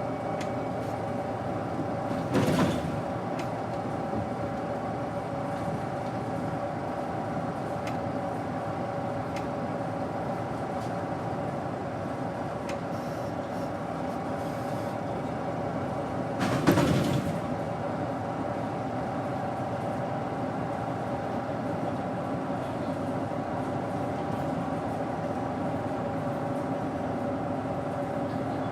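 Daewoo BS110CN bus running steadily on its Doosan GE12Ti turbocharged six-cylinder natural-gas engine, a constant hum with a steady tone in it. Two loud knocks sound over it, about two and a half seconds in and again near the middle.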